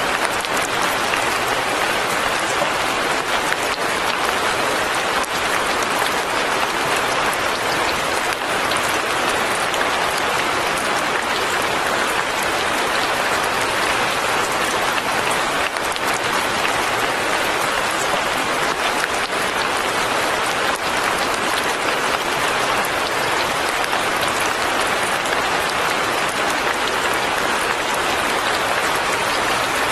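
Steady light rain falling, an even, unbroken hiss of drops with no pauses or changes.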